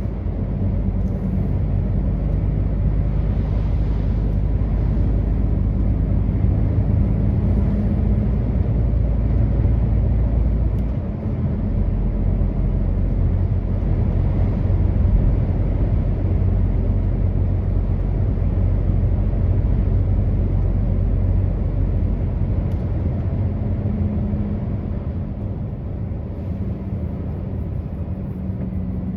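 Truck driving, a steady low engine drone with road rumble.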